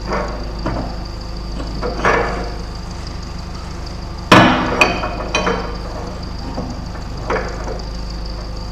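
Hammer blows on steel, about seven irregular strikes with a metallic ring, the loudest a little past halfway, over a steady low hum.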